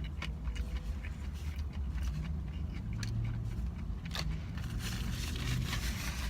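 Close-up chewing and biting of a soft shrimp taco, with a few faint crunches, over a steady low hum.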